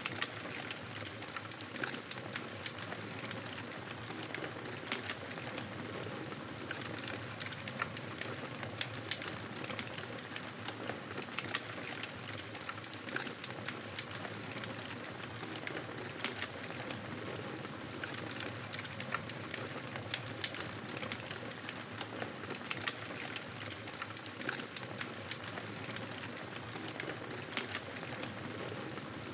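Wood fire crackling: a steady hiss of burning with frequent irregular sharp pops and snaps.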